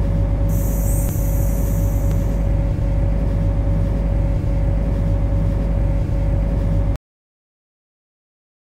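MTR Kwun Tong line C-Train running with a steady electric hum and a constant mid-pitched whine. A brief high hiss sounds about half a second in. The sound cuts out completely about seven seconds in.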